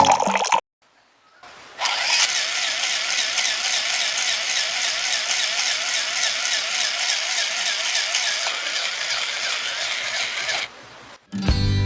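Small DC motor running steadily with a fast rattle, its pitch wavering slightly; it starts about two seconds in and cuts off near the end.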